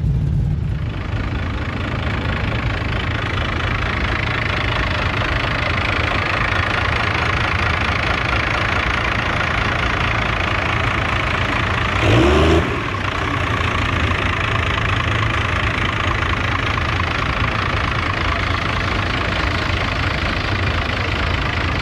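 A vehicle engine running steadily at idle over a continuous background rumble. About twelve seconds in there is a brief louder rise in pitch, like a quick rev.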